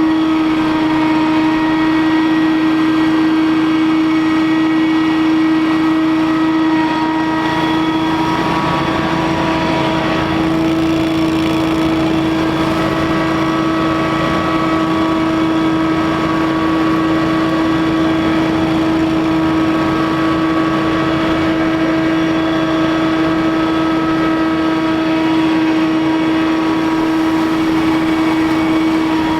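Scag Windstorm stand-on leaf blower running steadily at full speed, its engine and fan giving a loud, constant drone with one strong steady tone; the pitch of the higher tones shifts slightly about seven to ten seconds in.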